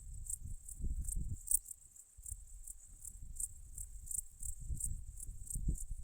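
Crickets or grasshoppers chirping in a steady high-pitched pulse, about three chirps a second, over an irregular low rumble that is louder in the first second and a half.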